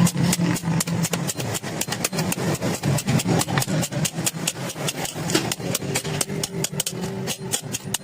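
Rapid, evenly spaced blows on iron, several a second, over a steady machine hum, as in a blacksmith's forging work.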